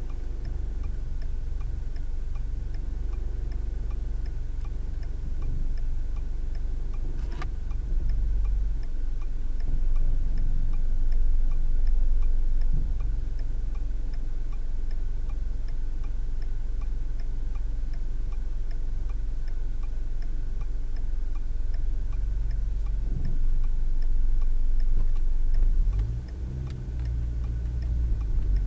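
A car's turn-signal indicator clicking steadily inside the cabin over low engine and road rumble, with one sharper click about seven seconds in.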